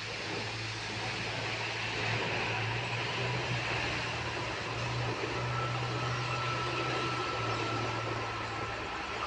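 Train running, a steady rumble with a constant low hum under it; a faint steady high tone joins about five seconds in.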